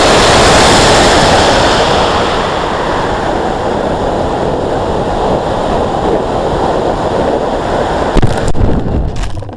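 Loud rushing wind noise buffeting the microphone, strongest in the first couple of seconds and then slowly dulling, with several sharp knocks near the end.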